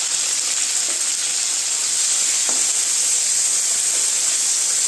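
Chopped tomatoes and onions frying in hot mustard oil in a kadai: a loud, steady sizzle, with one faint tap about halfway through.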